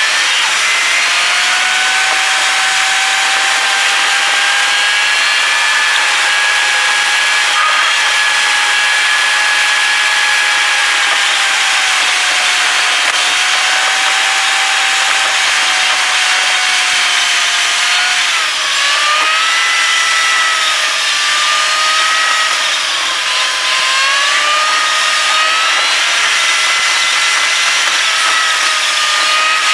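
Car engine and road noise at highway speed, heard from inside the car: a loud steady whine over hiss. Its pitch drifts slowly, then falls and climbs again about two-thirds of the way through as the engine speed changes.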